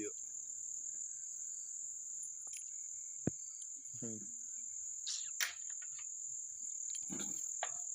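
Crickets trilling steadily at a high pitch, with a single sharp click about three seconds in.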